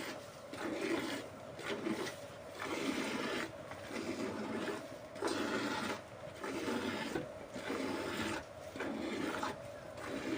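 Cow being milked by hand, streams of milk squirting into a pail in a steady rhythm of about one stroke a second.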